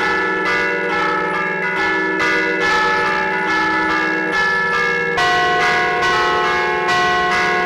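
Church bells played as allegrezze from a keyboard, each bell struck by a hammer ('a martellino'). It is a quick, tuneful run of overlapping bell notes, several strokes a second, ringing into each other, with a higher bell taking up the tune about five seconds in.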